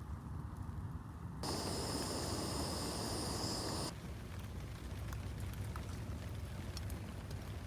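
Campfire crackling with scattered sharp pops. About a second and a half in, a louder steady hissing rush starts and stops suddenly about two and a half seconds later.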